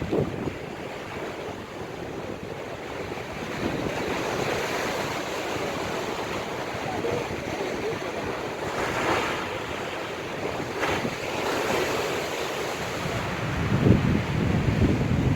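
Storm waves on the Black Sea breaking and washing against the shore, with strong wind buffeting the microphone, the low wind rumble heaviest just at the start and again near the end.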